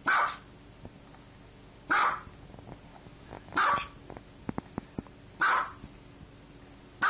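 Small white dog barking in single, sharp barks spaced about two seconds apart, with a few faint clicks between the third and fourth barks.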